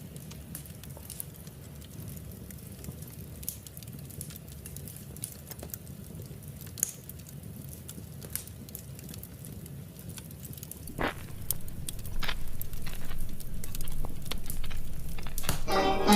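Wood fire crackling in a fireplace: scattered pops and snaps over a low steady rumble. Near the end, plucked-string music begins.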